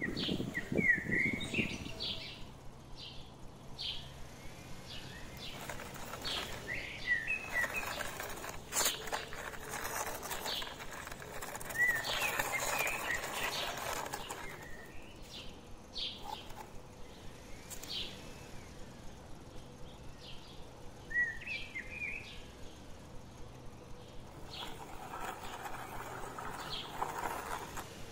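Small birds chirping, short high calls scattered throughout. There are stretches of rustling noise in the middle and again near the end.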